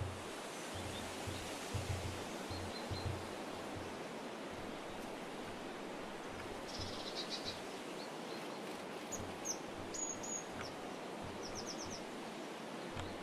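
Small birds giving short high chirps and a quick trill in the second half, over a steady outdoor hiss with occasional low bumps.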